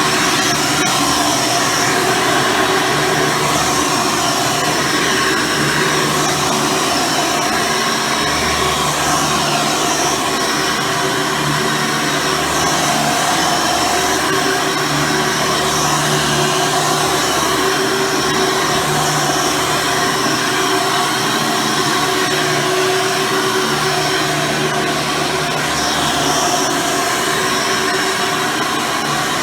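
Hoover Soft & Light Supreme upright vacuum cleaner running steadily, its 12-amp motor and brush roll in use while vacuuming.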